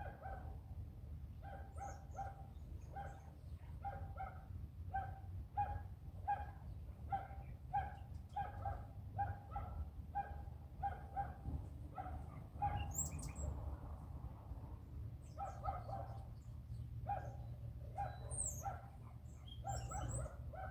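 An animal calling over and over, about one and a half short calls a second, with a break partway through; a few brief high bird chirps sound now and then over a steady low hum.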